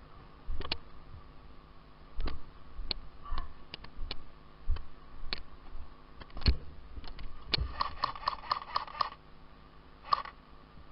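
Airsoft guns firing: scattered single shots and knocks, then a quick string of about eight shots near the end, over a faint steady hum.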